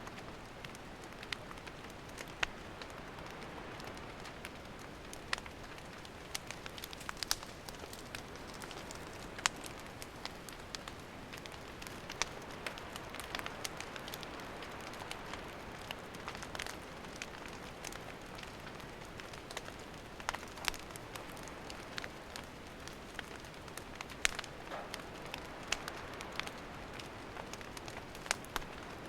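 Wood campfire crackling: a steady soft hiss with irregular sharp pops and snaps from the burning firewood.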